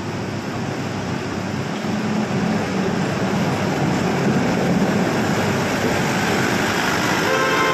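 Train running and approaching, its rumble growing steadily louder, with a horn starting to sound near the end.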